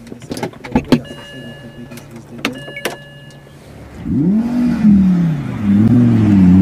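Red Audi R8 sports car engine revving hard as the car pulls away, its pitch rising and falling several times. Before it, a few sharp clicks and two short high beeps.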